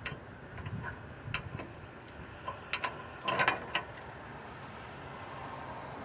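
Scattered metallic clicks and clinks of hand tools and bolts being handled, with a quick cluster of sharper clinks about three seconds in.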